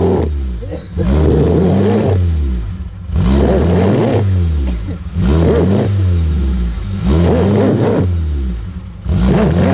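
An off-road vehicle's engine revving hard in about five repeated surges, pitch rising and falling each time, as the driver tries to power out of a stream bed.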